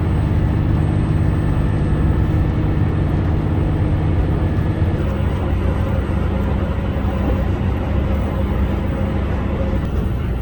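HOT7000-series diesel railcar running under its diesel engines, a loud steady mechanical drone whose engine note shifts abruptly about halfway through.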